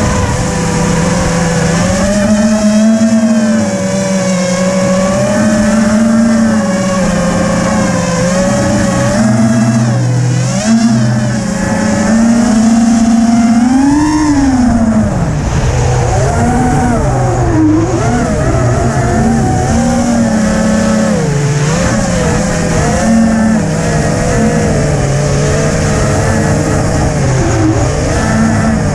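FPV quadcopter's electric motors whining steadily, their pitch wavering up and down with the throttle and rising to a peak about halfway through, over a rush of strong wind.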